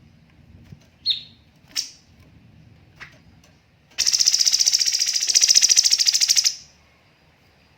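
Cucak cungkok singing: two sharp, high calls, then a fast rattling trill of rapid-fire notes lasting about two and a half seconds, the bird's 'tembakan' burst.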